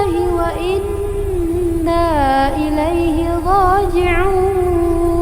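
Melodic Qur'an recitation: a single voice holds a long drawn-out note, turning and wavering through ornamented pitch changes. A low steady rumble sits underneath.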